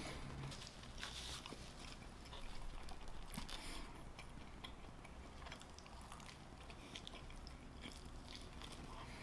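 A person chewing with faint, scattered mouth clicks and smacks, then biting into a cheesesteak sandwich roll near the end.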